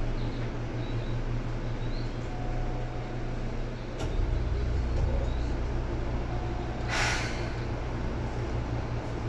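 Seibu 2000 series electric commuter train running, heard from inside the car: a steady low rumble and hum from the wheels and running gear, which grows heavier about four seconds in. About seven seconds in there is a short burst of air hiss.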